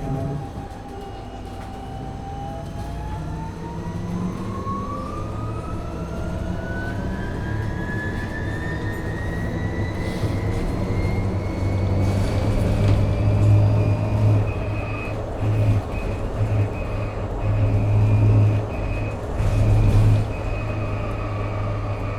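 MAN Lion's City hybrid city bus accelerating: a high electric drive whine climbs steadily in pitch for about fourteen seconds, then holds level as the bus runs at speed. Under it is a low drivetrain and road hum that swells and dips, with a few knocks and rattles.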